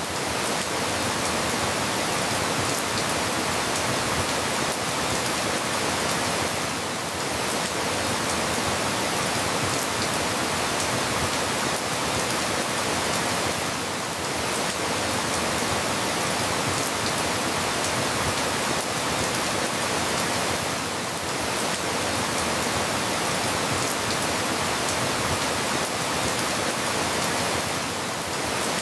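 Steady rain falling, an even dense hiss with no separate drops standing out, dipping slightly in level about every seven seconds.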